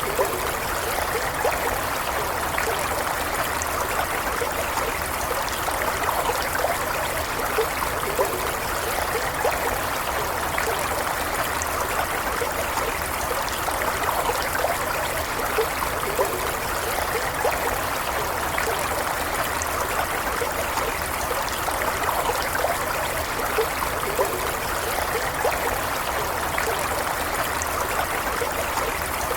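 Shallow stream running steadily, an even rush of flowing water with small trickles and gurgles.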